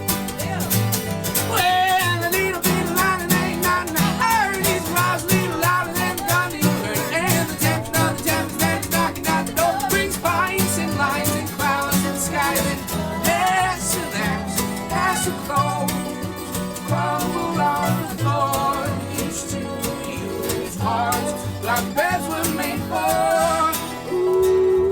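Country-style song: a singer over plucked acoustic guitar, the voice coming in about a second and a half in.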